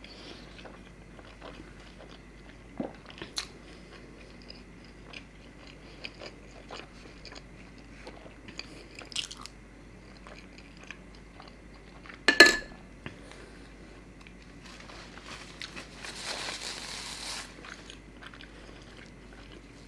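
Close-miked mouth sounds of a person chewing and biting into pudina paratha with chicken curry: small wet clicks and crunches scattered throughout. A single sharp knock about twelve seconds in is the loudest sound, and a short hiss follows a few seconds later.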